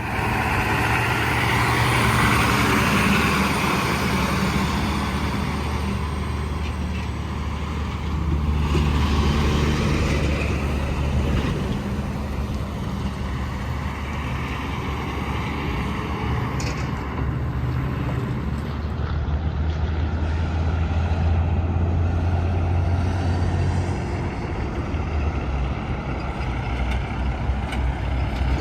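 Highway traffic dominated by semi-trucks passing one after another: diesel engine drone and tyre noise swelling and fading as each goes by.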